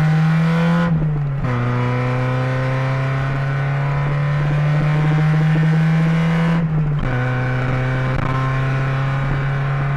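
Mazda Miata's engine droning loudly from inside the car while it is driven, its pitch climbing slowly under acceleration and dropping at two gear changes, about a second in and near seven seconds.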